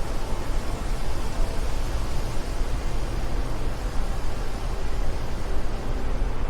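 Steady wind blowing: a continuous rushing noise with a strong deep rumble underneath.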